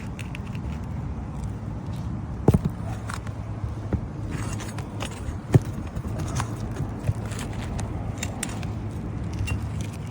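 Metal pry tool scraping and clicking against old asphalt shingles and roofing nails as a shingle is worked loose, with two sharper knocks about two and a half and five and a half seconds in. A steady low hum runs underneath.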